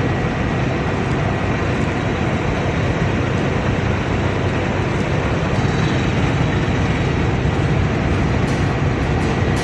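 Combine harvester running steadily under load, a constant loud mechanical drone with a faint high whine.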